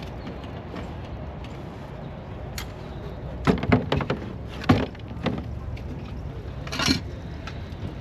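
Steady outdoor background rumble, with a cluster of sharp knocks and clanks about halfway through and a short hissing rush near the end.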